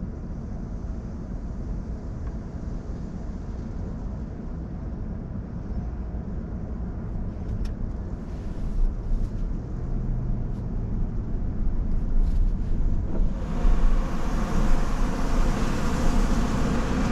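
Low steady rumble heard from inside the cabin of a Tesla Model S at an automatic car wash, with a few faint clicks. About 13 seconds in, a loud even hiss sets in abruptly: the car wash's water spray starting on the car.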